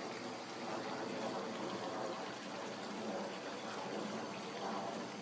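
Running water trickling steadily, like a small stream flowing over rocks.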